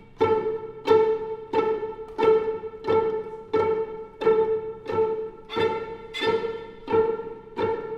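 String octet of violins, violas and cellos playing one pitch in repeated sharp accented strokes, about one and a half a second, each attack ringing on into the next.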